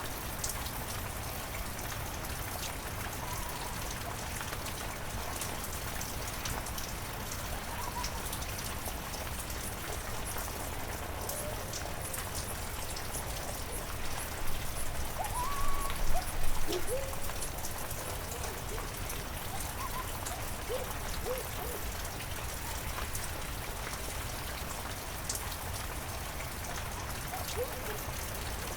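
Heavy rain falling steadily in a forest, an even hiss of drops. A few short pitched calls sound over it, the loudest cluster about halfway through.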